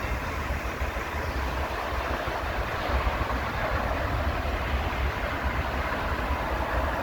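Steady noise of town traffic with a low rumble underneath, no single event standing out.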